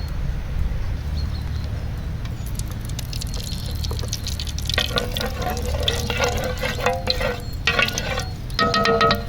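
Liquid being poured into a vessel: a pitched trickle in several short spells over the second half, with scattered clicks and a steady low rumble underneath.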